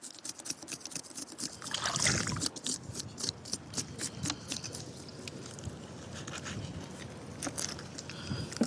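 Scattered sharp clicks and scraping over a steady hiss of background noise, with a louder rustling scrape about two seconds in.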